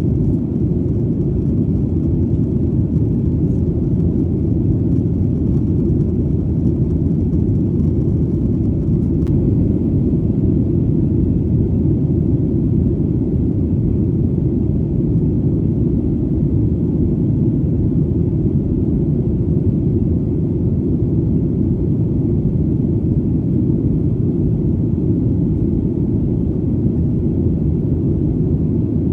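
Steady, deep drone of an airplane in flight: engine and airflow rumble, unchanging throughout.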